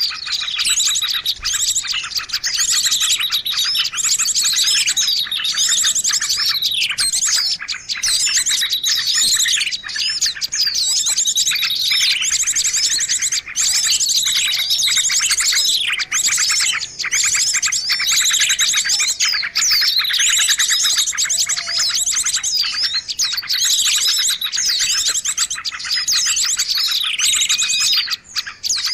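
Bird-luring call (suara pikat): dense, continuous chirping and twittering of many small birds, with rapid trills and repeated falling notes, high-pitched. It is played to draw wild birds in to perch on lime sticks or a trap cage.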